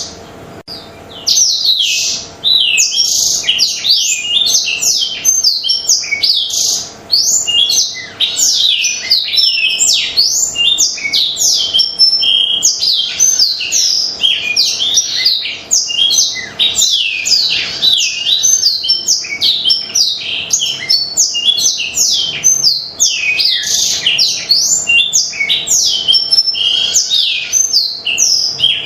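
Black-throated canary (blackthroat) in full, non-stop song: a long, fast torrent of high twittering notes that slide quickly up and down, broken only by short pauses about a second in and around seven seconds in.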